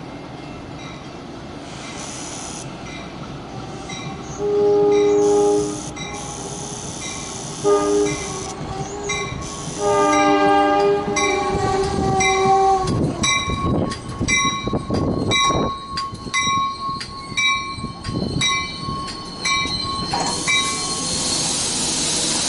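A two-tone train horn, the Princeton Dinky's Wabco AA-2, sounds three blasts: long, short, long, about five, eight and ten seconds in. After that an NJ Transit Comet V push-pull train comes to a stop at the platform, with high, flickering brake and wheel squeal and some low rumble as it slows.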